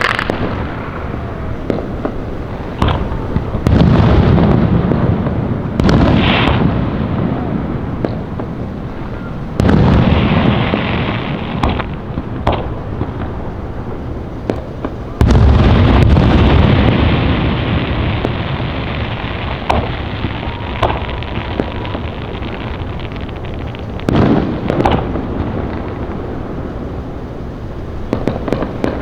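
Fireworks going off without pause: a steady crackle and bang of many shells, with heavy, rumbling booms about 4, 10 and 15 seconds in. The boom about 15 seconds in is the loudest and rolls on for a few seconds.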